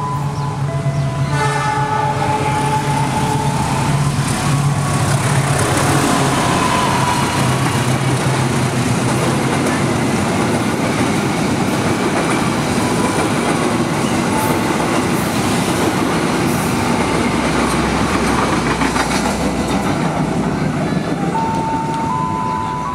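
Diesel-hauled passenger train passing close by. A multi-tone train horn sounds at the start over the hum of the locomotive's engine, then the coaches roll past with a steady rumble and clatter of wheels on the rails. The horn sounds again near the end.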